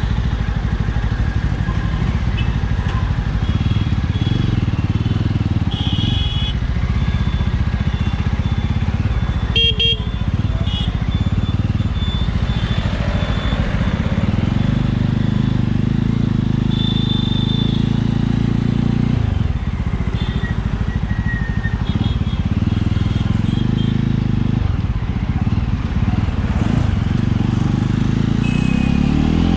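Jawa Classic 300's single-cylinder engine and exhaust running under way, the note holding fairly steady. It begins rising with the throttle right at the end.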